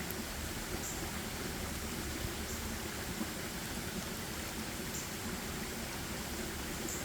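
Steady forest ambience: an even rushing noise, with faint short high ticks every second or two.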